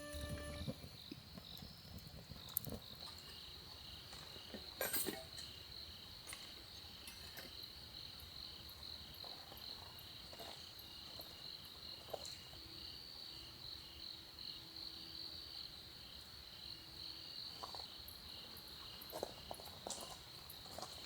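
Crickets chirping in a faint, steady, high pulsing trill, with a few light clicks and knocks scattered through.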